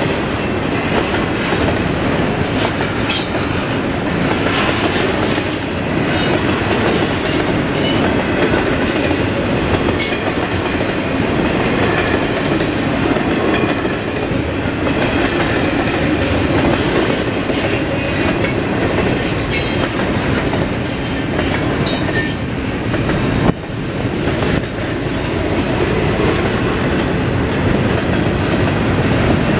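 Double-stack intermodal container cars of a freight train rolling past: a steady rumble of steel wheels on the rail with clickety-clack, and brief high metallic squeals from the wheels a few times.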